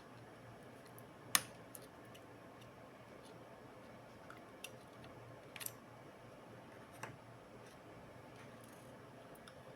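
A few scattered sharp clicks and taps, the loudest about a second and a half in, over a faint steady hum: small laptop parts and tools being handled during disassembly work.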